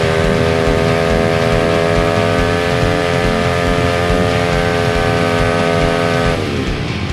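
An engine held at steady high revs, then the revs dropping away near the end.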